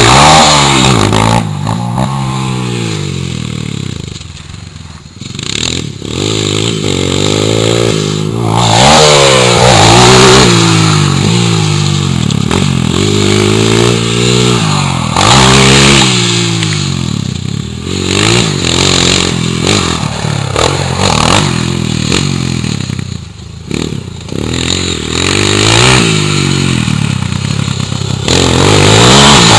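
Honda CRF230 dirt bike's four-stroke single-cylinder engine, loud and revving hard, its pitch climbing and dropping again and again as the throttle is opened and closed through the gears.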